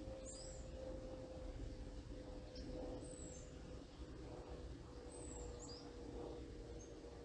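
Songbirds calling in the treetops: short high whistles sliding downward about every two to three seconds, with a few small chips between them. Beneath them runs a steady low hum and rumble.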